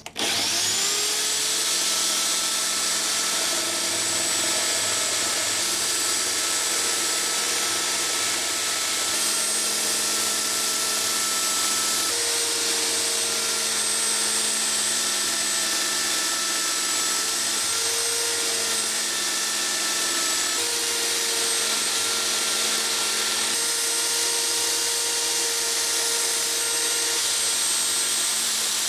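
Electric power tool switched on, spinning up within half a second, then running steadily with a strong hiss over its motor whine. Its pitch shifts slightly a few times.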